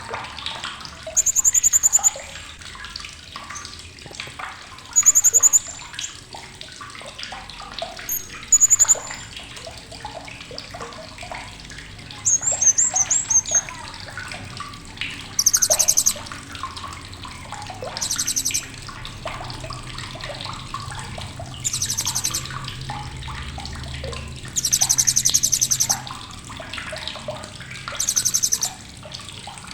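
Blue-crowned hanging parrot (serindit) giving sharp, very high-pitched chattering bursts, about ten of them, each under two seconds long, a couple of seconds apart, over softer continuous chirping and a steady rushing hiss.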